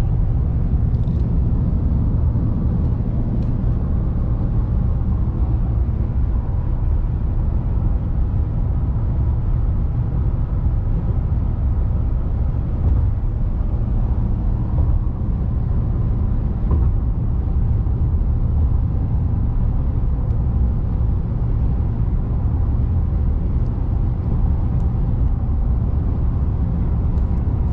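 Steady road and engine rumble from a car driving across a bridge, even and unchanging.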